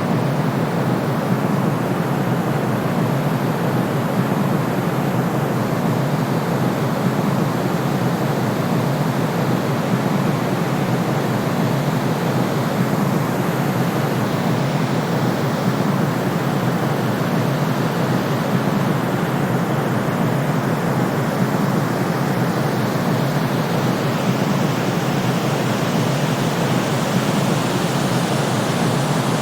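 Steady, unchanging electronic white noise for sleep, its energy weighted toward the low and middle range so that it sounds more like a soft rush than a bright hiss.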